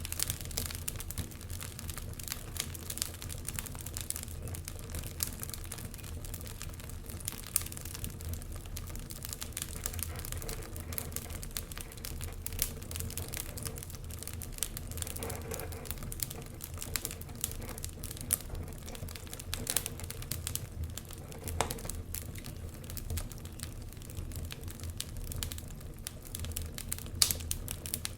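Wood fire crackling in a fireplace: a dense run of sharp little pops and snaps over a low steady rumble.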